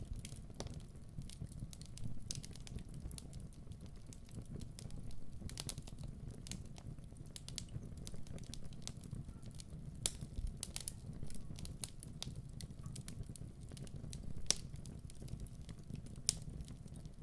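Wood fire crackling in a fireplace: a steady low rumble of flames with irregular sharp pops and snaps, a few of them louder than the rest.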